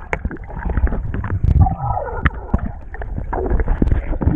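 River water churning and splashing around a raft, with a heavy low rumble and repeated knocks on the microphone of a waterproof-cased action camera.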